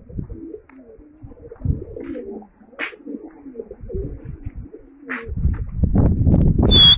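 Domestic pigeons cooing, low wavering calls repeating. In the last two seconds a louder scuffling noise rises over them, ending in a short high chirp.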